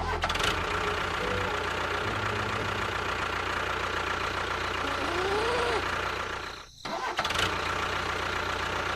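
Tractor engine running steadily, cutting out briefly about seven seconds in, with a short rising-then-falling tone just before.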